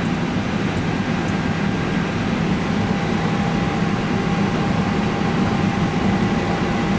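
Steady flight-deck hum of an airliner under tow, with air conditioning and the auxiliary power unit running: an even rushing noise with a thin, steady whine over it.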